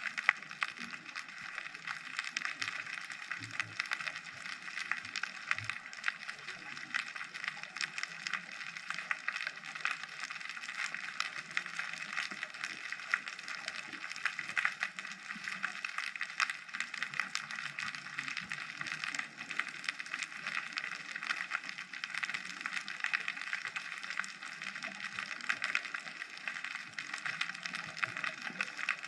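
Continuous underwater crackle of countless fine clicks and ticks in the ocean, heard through a GoPro's waterproof housing.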